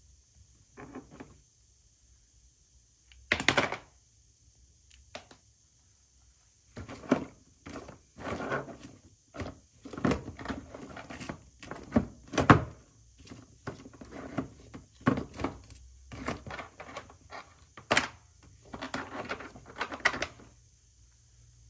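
Hands handling and unwrapping packaging, making irregular knocks, clicks and rustling. There is a single sharp knock about three and a half seconds in, then a busy stretch of clicks and scrapes from about seven seconds until shortly before the end.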